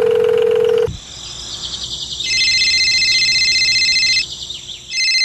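A steady electronic tone stops just under a second in. About two seconds in, an electronic telephone ring starts: a high, fast-warbling ring of about two seconds, then a second, shorter ring near the end.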